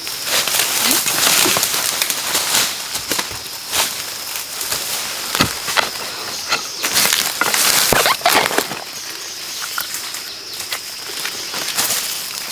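Rustling and crunching of dry bamboo leaves and stalks being handled, with repeated sharp snaps and cracks.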